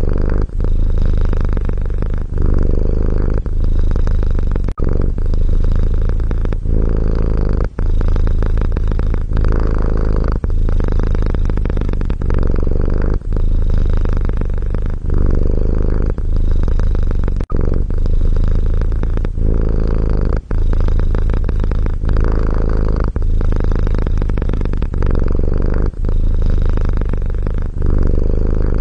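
Domestic cat purring loudly and steadily, close up, with a short break every two seconds or so.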